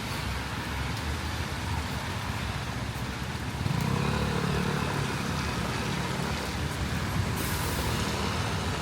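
A motor vehicle passing on a wet street: a steady hiss of rain and tyres, with an engine's low hum coming in about four seconds in and holding, and a short hiss near the end.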